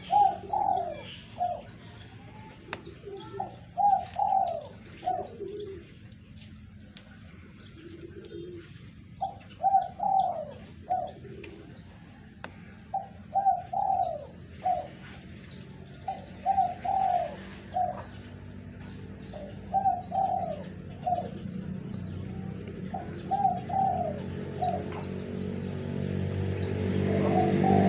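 Spotted dove cooing: phrases of several low notes, repeated every three to four seconds, over a steady fast series of high chirps. A low rumble builds near the end.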